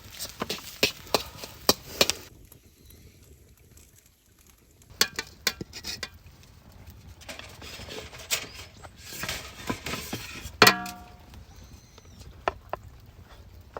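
Metal spoon clinking and scraping on a metal pan or plate while fried rice is served and eaten, a run of sharp clicks and knocks with a pause in the middle, and one louder ringing clang near the end.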